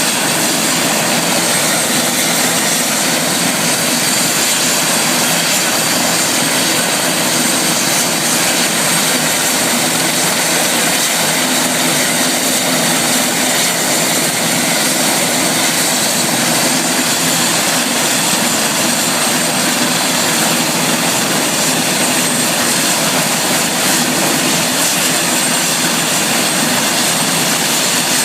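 Helicopter running steadily, its engines and rotors giving a loud, even noise with a thin high-pitched whine over it.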